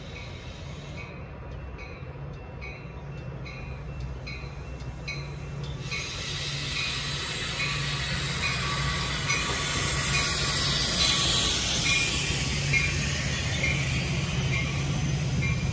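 Metra commuter train of bi-level gallery cars approaching and rolling past on the rails, its rumble and wheel noise swelling from about six seconds in and loudest near the end. A short ding repeats evenly, a little faster than once a second, throughout.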